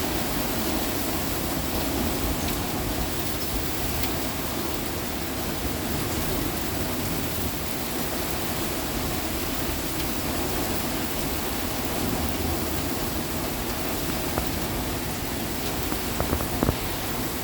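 Heavy rain falling steadily, a dense even hiss, with a few sharper drop taps near the end.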